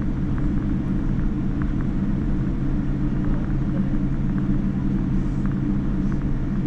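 Steady low drone of a Boeing 787-9 airliner in flight, heard inside the passenger cabin: engine hum and airflow rumble at an even level.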